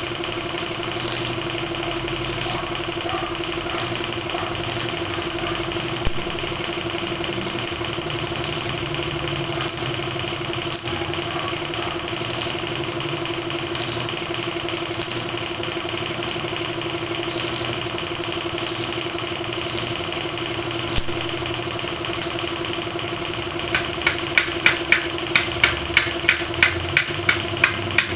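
Workshop sounds from a motorcycle rim repair. A machine hums steadily while short hissing scrapes repeat about every second. Near the end, rapid ringing metal strikes start, about three a second, like hammering on metal.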